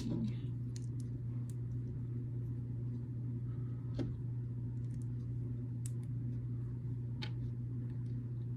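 A few scattered small clicks of plastic building bricks being handled and pressed together, over a steady low hum.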